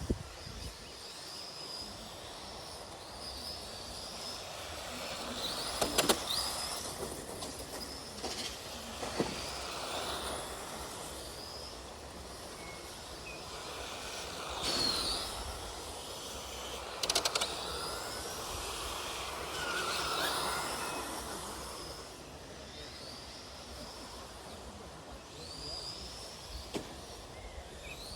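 Remote-control Tamiya model race trucks running, their electric motors whining up and down in pitch, with a couple of sharp knocks.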